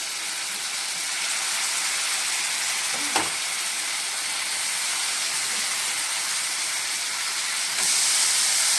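Marinated chicken leg pieces sizzling in hot butter in a pan: a steady hiss with one light knock about three seconds in. The hiss grows louder near the end.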